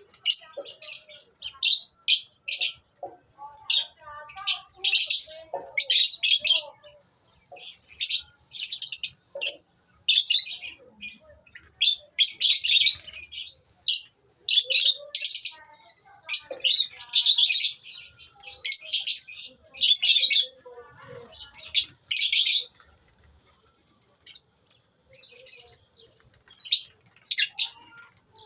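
A colony of lovebirds chattering, shrill high-pitched chirps in rapid overlapping bursts, dying down briefly near the end before starting again.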